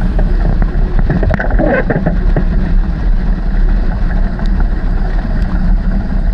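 Wind buffeting the microphone and water rushing along a sailing dinghy's hull, with a few scattered knocks.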